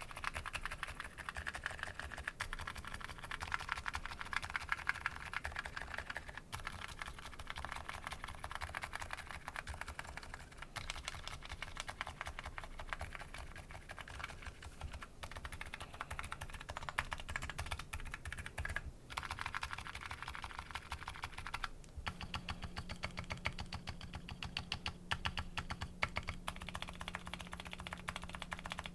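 Continuous fast typing on a Nuxros Kraze custom keyboard with MetaKeebs MetaPulse electrocapacitive switches: a rapid stream of keystroke clacks with two brief pauses about two thirds through. A faint low hum joins after the second pause.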